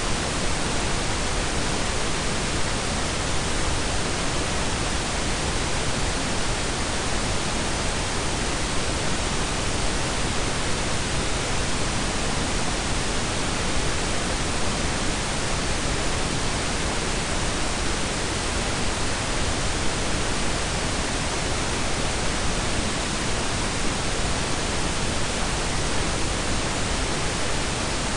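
Synthetic blend of pink and brown noise: a steady, even hiss with a deep rumble beneath it, unchanging throughout.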